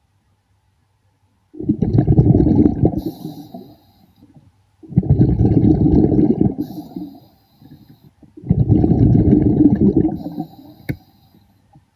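A diver's exhaled air bubbles rumbling past an underwater microphone: three breaths out, each about two and a half seconds long, with quiet pauses between them.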